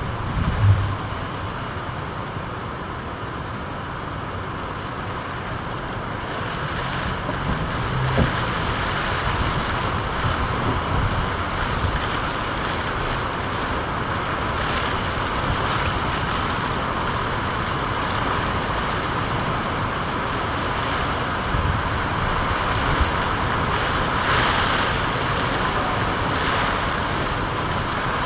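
Steady rainfall, an even hiss with a brief low thud about a second in.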